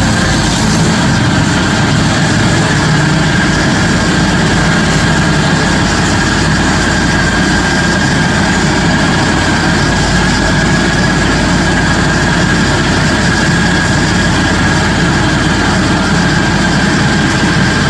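Stump grinder running steadily: a constant engine and machine noise with a steady high whine over it.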